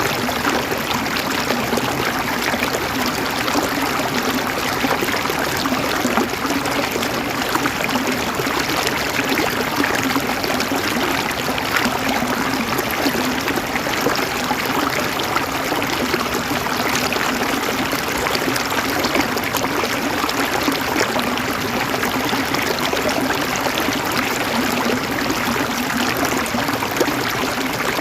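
River water flowing and gurgling over stones, a steady, even rush of water.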